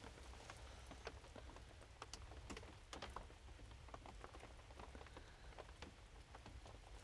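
Faint light rain, with drops ticking at irregular intervals over a low steady rumble.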